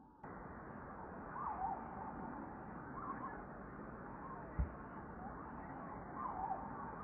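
Open-air ambience: a steady breezy hiss with birds calling a few times in short, wavering phrases, and one brief dull low thump just past halfway.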